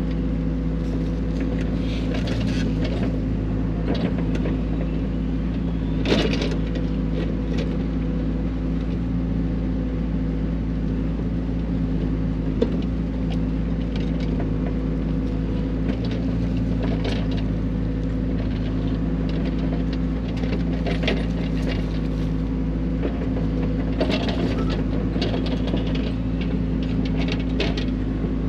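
XCMG XE55U mini excavator digging a trench: its diesel engine runs steadily, while the bucket scrapes and knocks against dirt and rock now and then, most sharply about six seconds in and again near the middle.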